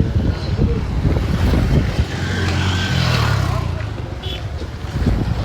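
Motor vehicle engine running close by, swelling and then fading a few seconds in, as it would when a vehicle passes.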